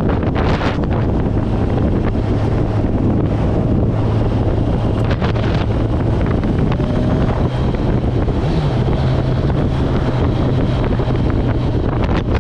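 Heavy wind noise on the microphone over a Kawasaki Z1000SX's inline-four engine running at cruising speed. The engine note steps up in pitch about eight and a half seconds in.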